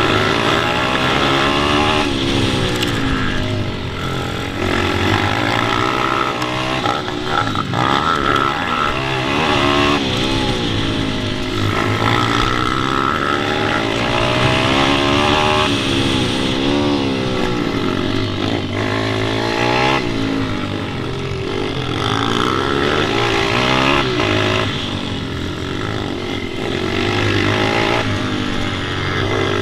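Pit bike engines revving hard, the pitch climbing and falling again every second or two as the riders go up and down through the gears, with more than one bike running at once.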